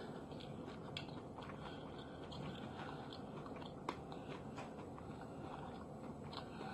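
Faint, close-miked chewing of a big mouthful of food, with small wet mouth clicks scattered through it.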